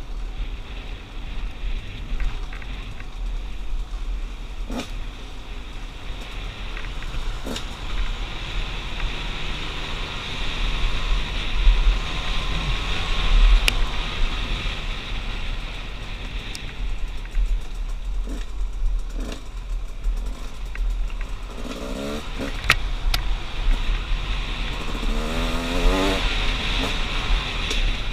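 2016 KTM 200 XCW's 200 cc two-stroke single-cylinder engine running under throttle on a trail ride, with the revs rising and falling a few times near the end. Steady wind rumble on the helmet-mounted microphone runs underneath, with a few sharp clicks.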